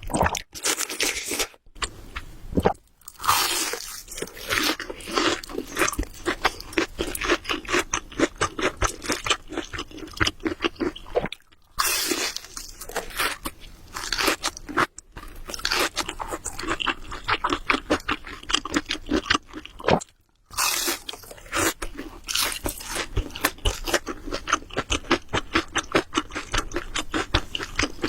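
Close-miked ASMR eating sounds: a person chewing spicy carbonara Buldak noodles, a rapid run of wet mouth clicks and smacks with a few short pauses.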